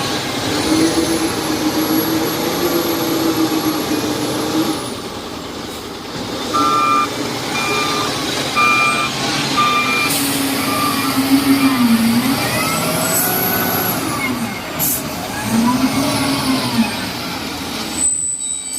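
Diesel engine of a LiuGong 848H wheel loader revving up and down as it works coal, with a reversing alarm beeping about five times near the middle and a short hiss of air a little later.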